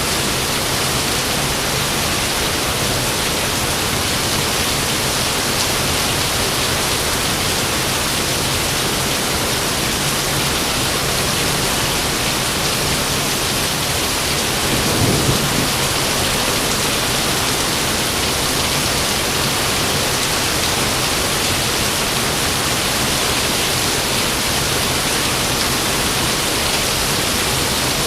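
Steady, heavy rain falling, with one short low rumble of thunder about halfway through.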